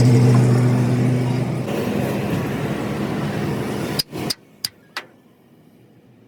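A motor vehicle's engine running with a steady hum, giving way to steady road-traffic-like noise; about four seconds in the sound cuts off, and a few sharp knocks follow.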